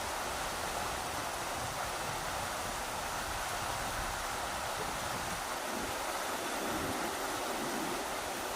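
Rushing river water flowing with a steady, unbroken rush.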